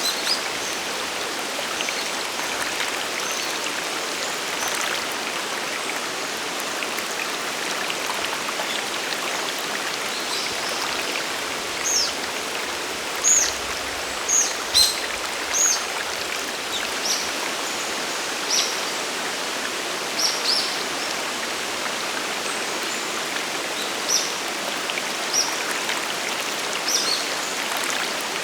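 Steady rush of a waterfall and mountain stream. From about halfway through, a bird gives short, high, down-slurred calls, about a dozen, each standing out briefly above the water.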